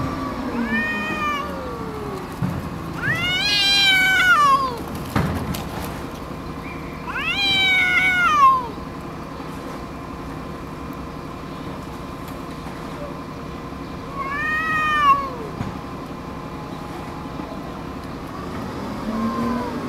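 Domestic cats yowling at each other in a territorial standoff: about four long, drawn-out calls that rise and then fall in pitch, with pauses between them, the second and third the loudest.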